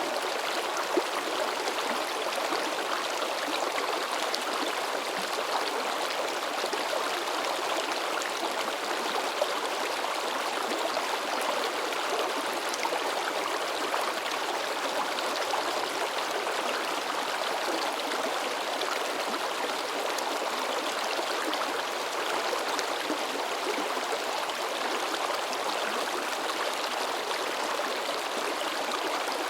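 Shallow river babbling and splashing, a steady even rush of running water.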